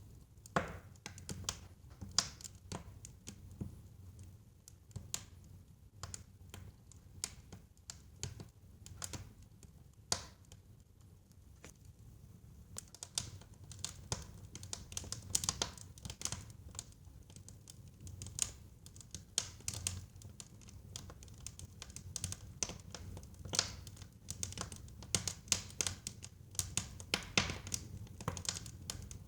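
Wood fire in a fireplace crackling and popping: irregular sharp snaps over a low rumble of the flames, sparser for a few seconds near the middle and coming thick and fast in the second half.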